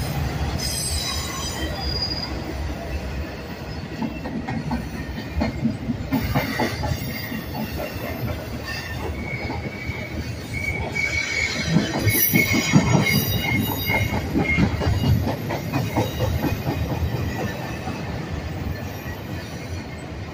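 Union Pacific double-stack container train rolling past: a steady rumble with the wheels of the well cars clacking over the rails, and a high-pitched wheel squeal that comes and goes from about nine to fifteen seconds in.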